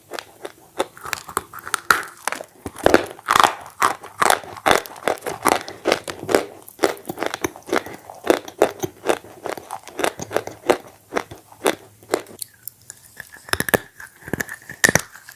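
Close-miked chewing of bread dipped in red clay paste: a rapid run of crisp crunching bites, several a second.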